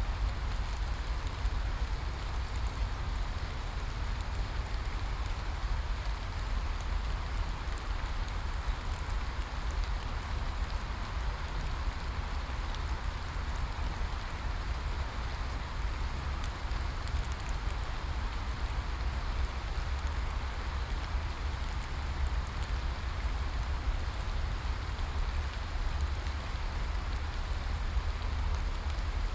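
Steady rain falling, an even hiss of drops with faint scattered ticks, over a constant low rumble.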